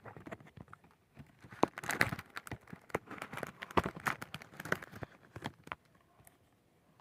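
Packaging being handled and opened by hand: crinkling plastic wrap and paper with many small sharp clicks and taps, busiest from about a second in and settling down near the end.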